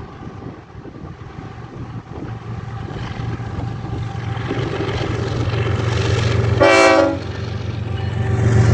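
GE ES44AC diesel locomotives approaching, their low rumble growing steadily louder, with a short blast of the locomotive horn about six and a half seconds in.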